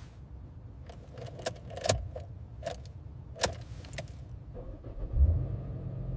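Keys jingling with a handful of sharp metallic clicks, then about five seconds in a truck's diesel engine starts with a thump and settles into a low, steady idle.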